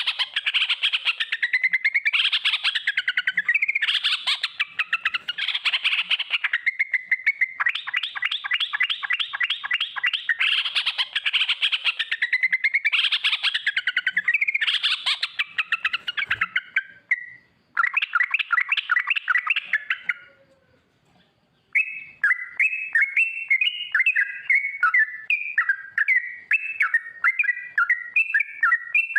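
Yellow-vented bulbul (trucuk) singing long, fast rolling trills ('ropel'): runs of rapidly repeated notes, broken by short pauses about two-thirds through, then choppier, jumping phrases near the end.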